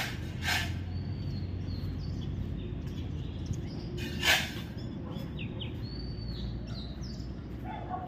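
Small birds chirping in short, high calls, with two brief loud sharp sounds about half a second in and just after four seconds in, over a steady low rumble.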